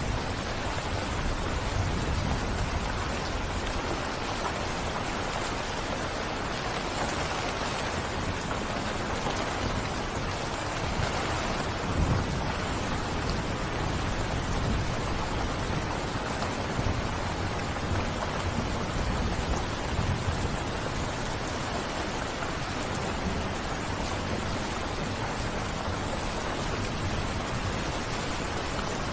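Steady heavy rain, with a low rumble now and then, loudest about twelve seconds in.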